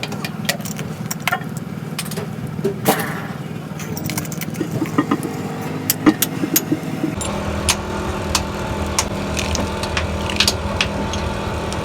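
Sharp metal clinks and taps from hand work on a wheel hub and its bearings, over a steady engine hum. About seven seconds in the hum grows deeper and fuller.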